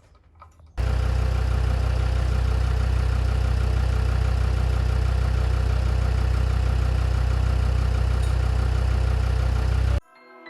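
An engine running steadily at a constant speed with a strong low rumble. It starts abruptly about a second in and cuts off abruptly near the end.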